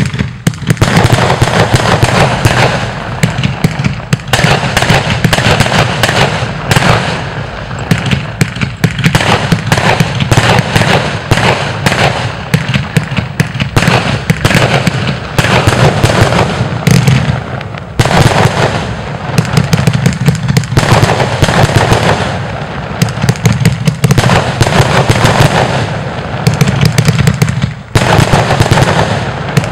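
Geisha 'Riesenknaller' firework battery firing shot after shot in rapid succession: launches and loud sharp bursts that crackle and overlap. This carries on without a break except for a few brief lulls.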